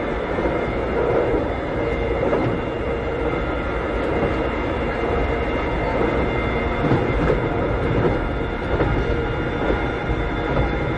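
Interior running sound of a 1960s–80s Keikyu old 600 series electric train car with Toyo Denki traction equipment, travelling at speed: a steady rumble with a constant whine from the motors and gearing, and occasional rail-joint clacks.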